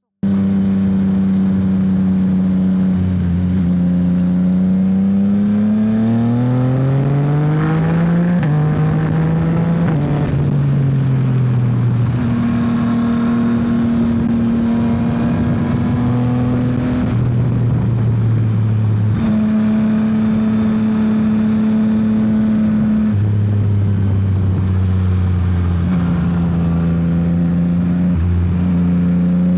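Yamaha XSR900's inline three-cylinder engine pulling hard, its note climbing steadily about four to eight seconds in, then stepping between higher and lower pitches many times as the throttle and gears change.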